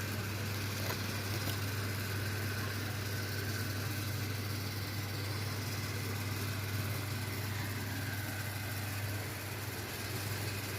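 Steady low hum with an even hiss over it, unchanging throughout, like a small motor running.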